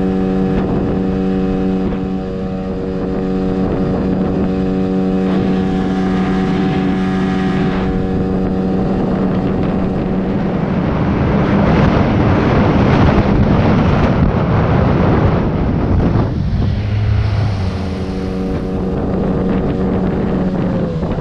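9.8 hp outboard motor running flat out at a steady pitch, pushing an inflatable boat at speed in a race. For several seconds in the middle, a rushing noise swells over the engine, then the engine stands out again.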